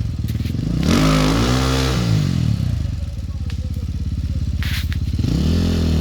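Enduro motorcycle engine running nearby. It is revved up and back down about a second in and again near the end, and runs steadily in between.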